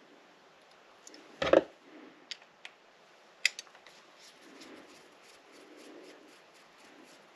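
Hand work on a model locomotive being taken apart: one solid knock, a few sharp clicks of small tools and parts, then a run of faint light ticks.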